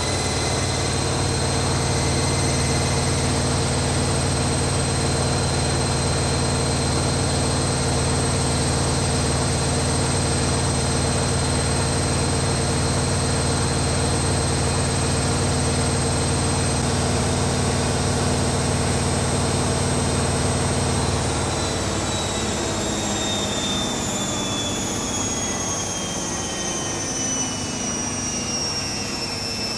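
Zanussi ZKN7120L washing machine spinning: a steady high motor whine over a low drum hum. About two-thirds of the way through the drive cuts out, and the whine falls steadily in pitch as the drum slows down at the end of the spin.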